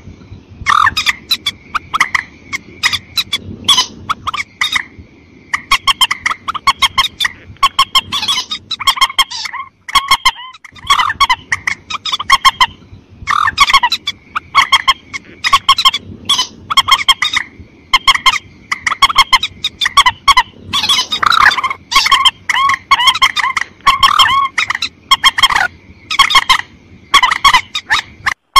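Calls of mandar, birds of the rail family, played as a hunting lure: long trains of short, sharp clucking notes repeated over and over, with a short break about ten seconds in.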